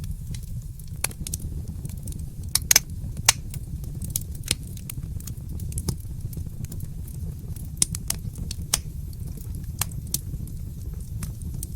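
Wood fire in a fireplace crackling, with irregular sharp pops over a steady low rumble; the loudest pops come in a cluster about three seconds in.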